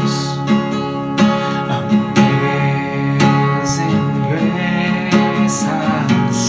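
Acoustic guitar strumming chords, an instrumental interlude in a worship song, with a melody line wavering over it in the middle.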